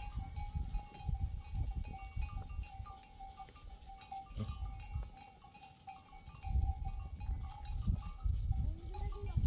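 A flock of sheep and goats, with bells jingling and a single bleat near the end, over low rumbling noise.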